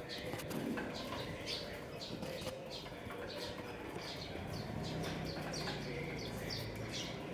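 Small birds chirping in short, irregular high calls, several a second, with a low steady tone joining in the second half.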